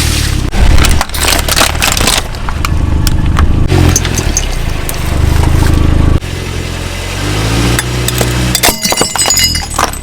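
A car's engine running, its pitch rising and falling, with repeated sharp cracks and crunches as objects are crushed under its tyres. The level drops suddenly about six seconds in.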